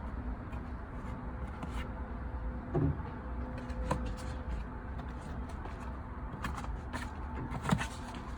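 Dishwasher door and racks being handled: scattered clicks and knocks over a steady low hum, with a louder knock near the end.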